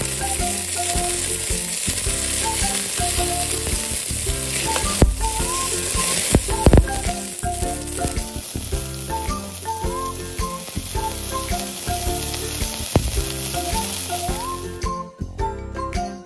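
Scallion whites sizzling steadily in hot oil in a pot, with a couple of louder pops about halfway. The sizzling cuts off near the end, and light background music runs underneath.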